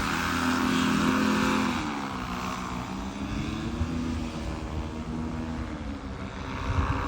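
Paramotor engine and propeller running with the throttle changing: the pitch drops about two seconds in, rises briefly, sags again and climbs near the end.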